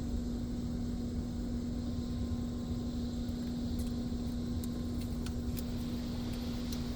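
Steady mechanical hum over a low rumble, heard from inside a car's cabin as it is pulled through an automatic tunnel car wash.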